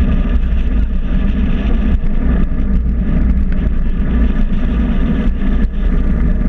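Steady, loud low rumble of a bike under way, running without let-up.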